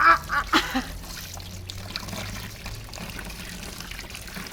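Water pouring and trickling steadily, with a few short loud sounds in the first second.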